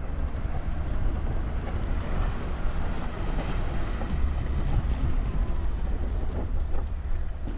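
Steady low rumble of a vehicle's engine and road noise heard from inside the cab, even throughout with no distinct events.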